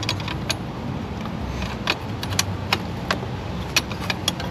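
Sharp, irregular metallic clicks and clinks from a 13 mm wrench working a bracket nut loose, over a steady low rumble.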